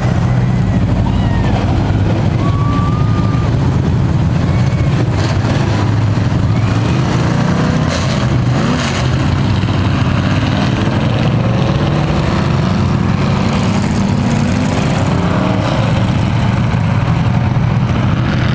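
Several Thunder Truck race engines running as a pack at pace-lap speed, a steady loud drone whose pitch rises and falls as trucks pass.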